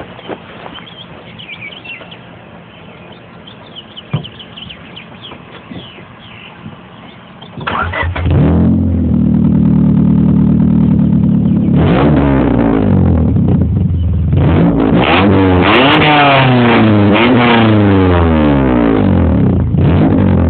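Honda Civic engine starting about a third of the way in and settling to idle through its aftermarket exhaust with a 4-inch tip. It is then revved once, followed by a series of rising and falling revs near the end. Before the start there are only faint high chirps.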